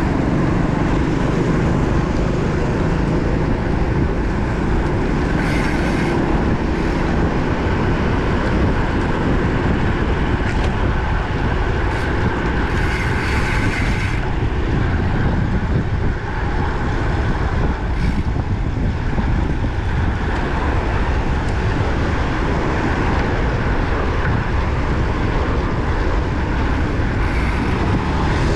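Wind rushing over the microphone of a road bike riding at speed along a highway, mixed with tyre and road noise; a few short hissing bursts stand out, the longest about halfway through.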